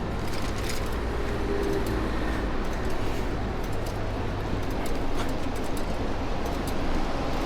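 Steady city street ambience with a low traffic rumble and a hiss of moving air, recorded while riding a bicycle.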